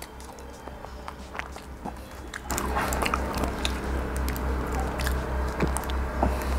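Close-up chewing of crispy fried chicken mixed with the crinkle and tear of a plastic ketchup sachet, heard as many small sharp crackles. About two and a half seconds in, background music with a steady low beat comes in.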